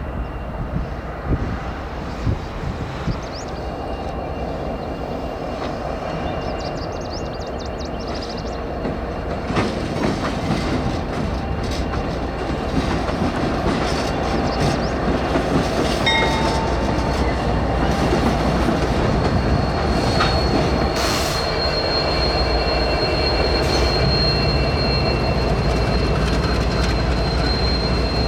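Diesel freight locomotives rolling slowly along the track, their engine rumble growing louder as they come closer. A few clacks come over the rail joints, and high steady wheel squeal sets in about two-thirds of the way through.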